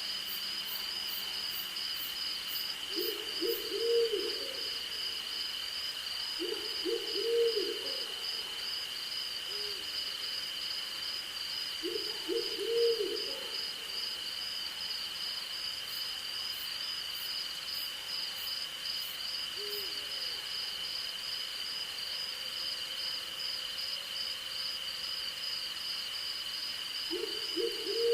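An owl hooting in short runs of three or four low notes, several seconds apart, four times and once more faintly. Underneath is a steady night chorus of crickets and insects: one even trill and a higher, fast-pulsing one.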